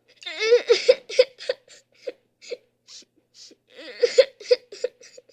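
A person crying: a wailing cry that falls in pitch, then a run of short sobbing breaths, with another louder sob about four seconds in.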